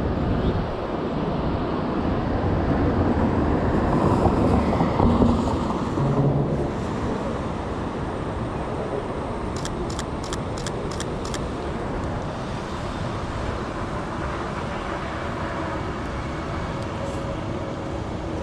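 City street traffic: steady road noise, swelling as a vehicle passes close about four to six seconds in. About ten seconds in comes a quick run of six short, high ticks.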